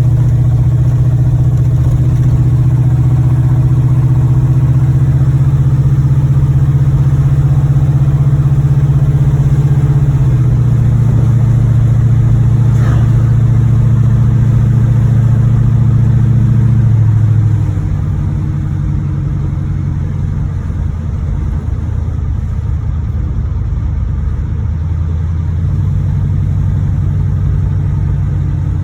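Chevrolet Monte Carlo SS's 305 V8 running while the car is driven, an engine with a knocking connecting rod. Its pitch steps down about a third of the way in, and again past halfway, where it also gets quieter.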